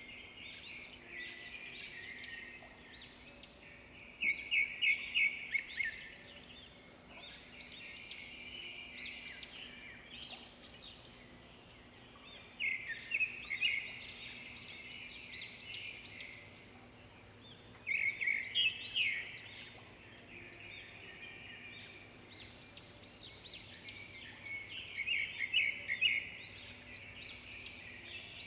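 Small birds chirping and singing together without pause, with four louder bursts of quick repeated notes spread through the stretch.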